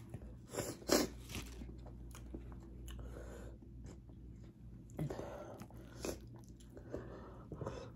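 Close-up eating sounds: chewing and mouth noises, with a few short sharp clicks, the loudest about a second in.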